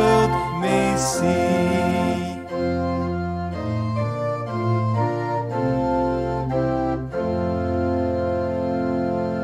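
Organ music: sustained chords changing every second or so, settling on a long held chord for the last couple of seconds.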